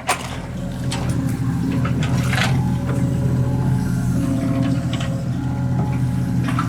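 Excavator's diesel engine running steadily under load, with a few short knocks and clanks from the machine working.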